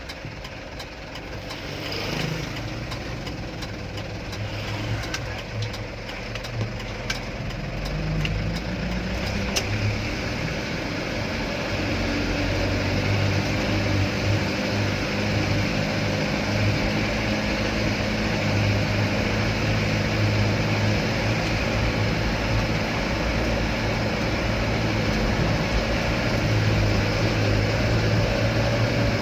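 Truck engine running, with a few sharp clicks early on. About eight seconds in it picks up revs, then runs louder and steady.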